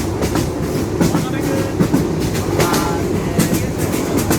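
Moving passenger train running on its rails: a steady rumble with repeated sharp clicks from the wheels.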